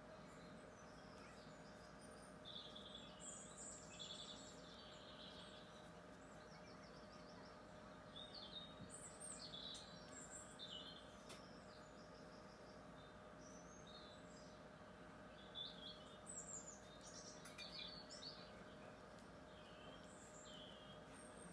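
Faint birdsong: small birds chirping and twittering in three short spells, over a steady low background hum.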